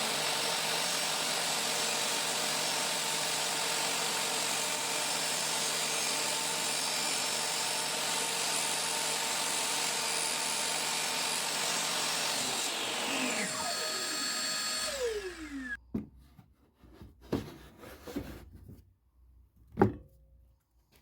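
A power tool's electric motor running at a steady whine for about twelve seconds, then switched off and winding down in pitch over two to three seconds. A few separate knocks follow near the end.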